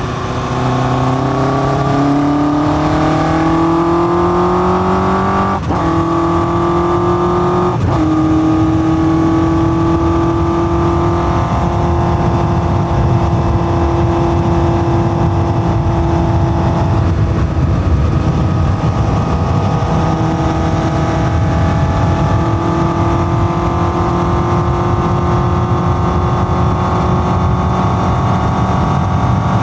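1981 Yamaha XJ550's air-cooled inline-four, breathing through open K&N pod filters into a 4-into-1 exhaust, accelerating with two quick upshifts about six and eight seconds in, each dropping the engine note, then running at a steady cruising speed with only small throttle changes.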